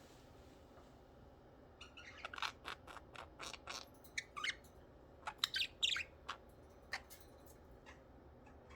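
Budgerigars chirping in short, scattered calls, starting about two seconds in and thinning out near the end.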